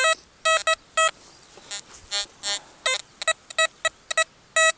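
Metal detector giving about a dozen short, uneven beeps at one pitch as the coil is swept back and forth over a buried target. The signal is edgy and jumpy, which the detectorist reads as iron.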